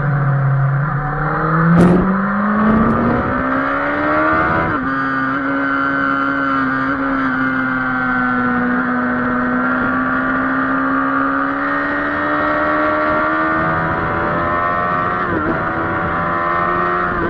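Kawasaki sport bike's inline-four engine pulling hard out of a corner, heard from onboard: its pitch climbs steadily over the first few seconds, with a sharp click about two seconds in, then holds high and steady at high revs, dipping briefly a couple of seconds before the end.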